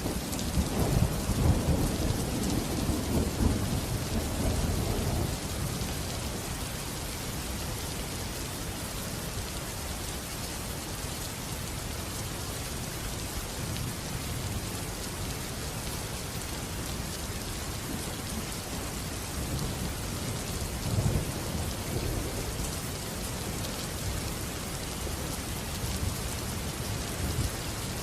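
Steady rainfall with rolling thunder: a long rumble in the first few seconds that fades away, and a shorter rumble about three quarters of the way through.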